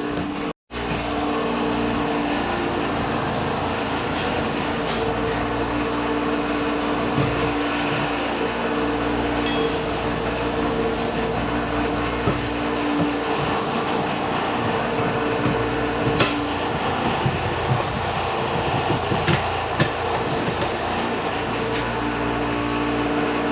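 A machine running steadily: a motor hum over a noisy rush, with a few light knocks in the second half.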